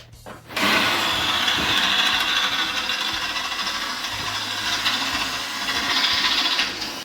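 A power tool cutting, starting about half a second in and running steadily for about six seconds before stopping near the end.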